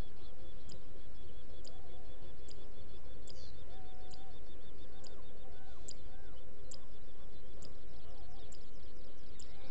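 Birds calling and chirping over a steady low rumble, with a high tick repeating about every two-thirds of a second.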